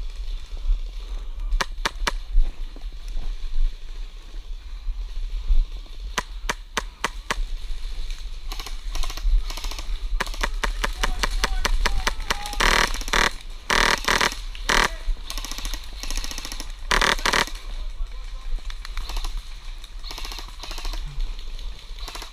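Airsoft guns firing: a few scattered single shots, then long strings of rapid full-auto fire through the middle, the loudest and densest, thinning out to a few shots near the end.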